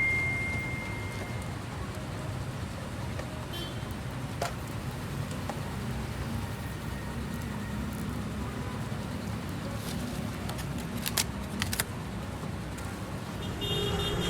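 Street ambience with a steady low rumble of road traffic and a few sharp clicks. A metallic ring fades out in the first second or two.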